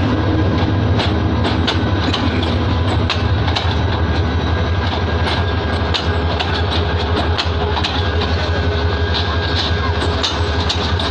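Bangladesh Railway intercity passenger coaches rolling past on steel wheels as the train pulls into a station. A steady low rumble runs with irregular clicks and clacks as the wheels cross rail joints.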